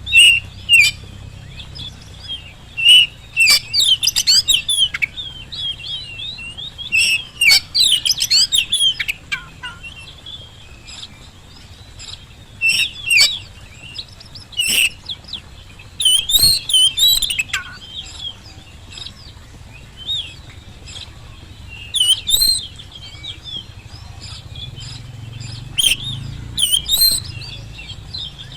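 Oriental magpie-robin (kacer) singing in full voice: bursts of quick, varied whistled phrases with short pauses between them, over a faint low hum.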